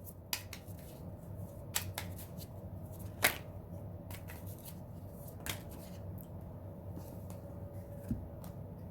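Tarot cards being shuffled and handled, a scattering of short sharp card clicks over a faint steady hum.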